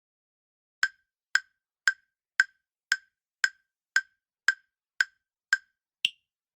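Countdown timer sound effect: eleven sharp ticks, about two a second, the last one higher-pitched.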